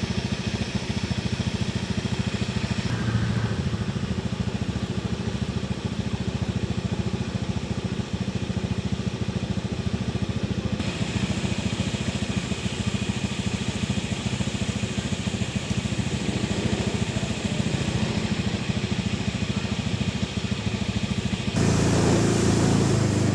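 A small engine running steadily with a fast, even pulsing and a low hum, growing louder near the end.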